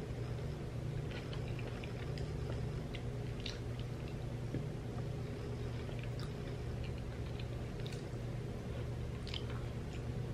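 Close-up chewing and soft wet mouth sounds of a person eating samosa chaat with her fingers: scattered small clicks and smacks over a steady low hum.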